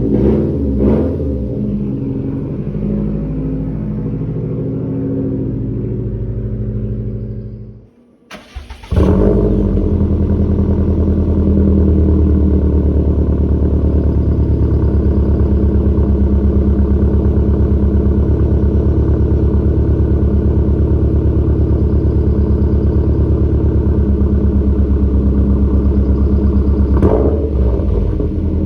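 Subaru WRX STi turbocharged EJ257 flat-four through a Remark muffler-delete, non-resonated cat-back exhaust. It is idling, shuts off about eight seconds in, then restarts a second later with a sharp flare and settles into a loud, steady idle.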